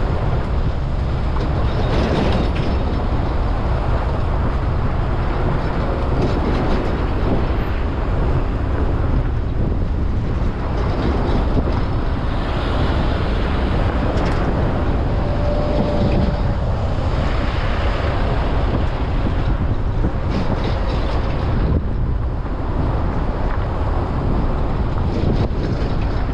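Steady noise of road traffic with a deep rumble, continuing without a break.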